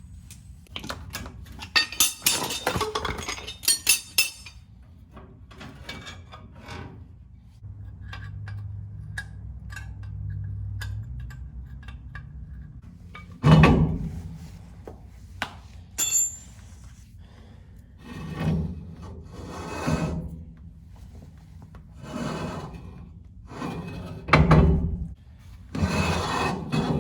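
Hand work on a truck's rear axle assembly: a rapid rattle of clicks, then a low hum for a few seconds, a loud knock, and a string of heavy knocks and rubbing, parts and tools being handled.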